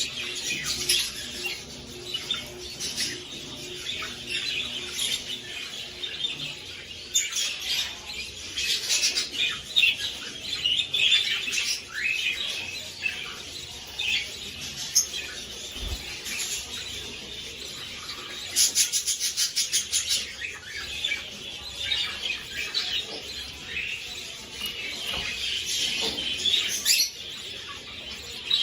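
Budgerigars chattering and chirping continuously, with a quick run of repeated short calls about two-thirds of the way through.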